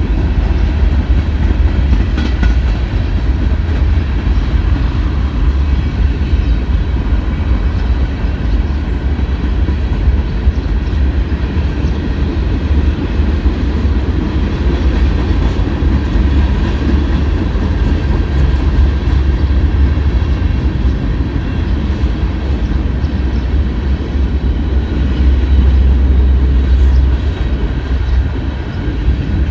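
CSX freight train of garbage cars rolling past: a steady, loud low rumble of wheels on rails with rattling cars.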